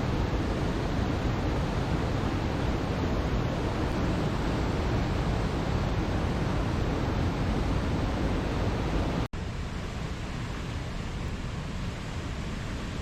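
Steady rushing ambient noise with a sudden cut about nine seconds in, after which it carries on a little quieter and thinner.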